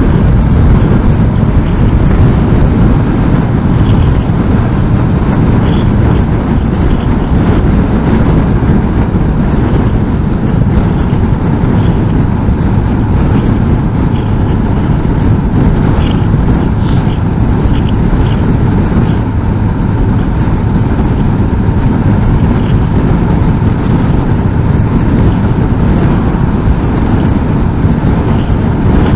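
Honda NC750S parallel-twin motorcycle cruising at steady speed in strong wind: a loud, unbroken rush of wind noise on the microphone, with engine and tyre rumble underneath and no change in speed.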